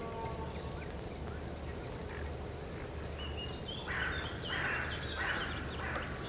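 Woodland nature ambience: a short high chirp repeats steadily about twice a second over a low, steady rumble. A cluster of louder animal calls and a brief high hiss come about four to five seconds in.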